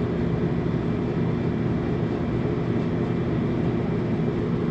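Vacuum truck's engine running steadily, a constant low drone.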